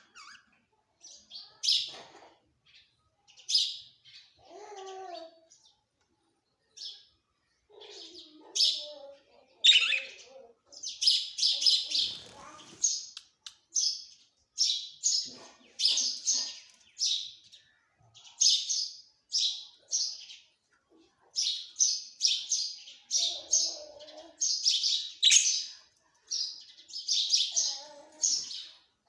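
Pet parrot calling in short, high chirps, scattered at first and then coming about twice a second, with a few lower, warbling sounds in between.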